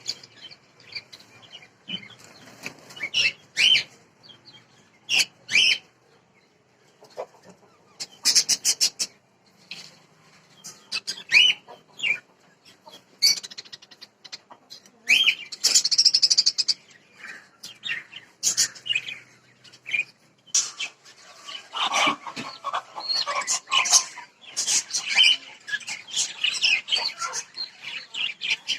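Caged aviary birds (lovebirds, finches, cockatiels and budgies) chirping and squawking in short, irregular bursts. The calls grow busier and overlap in the last third.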